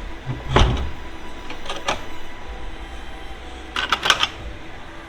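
A few sharp clicks and knocks, with a quick cluster of clicks about four seconds in.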